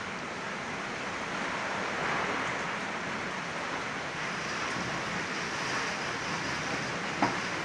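Heavy rain pouring steadily, with one sharp tap near the end.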